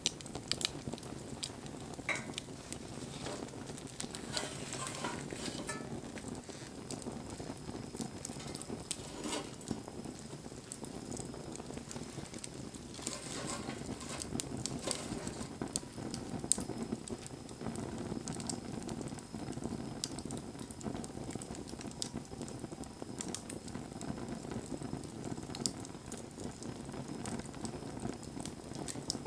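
Wood fire burning, with a steady rush of flame and frequent irregular crackles and pops from the burning wood.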